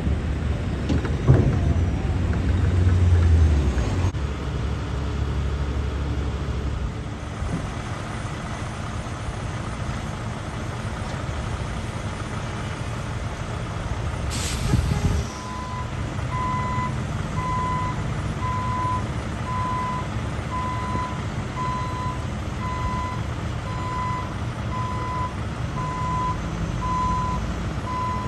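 A heavy truck's engine running, with a sharp hiss of air brakes about halfway through, then the truck's reversing alarm beeping steadily about once a second as it backs up.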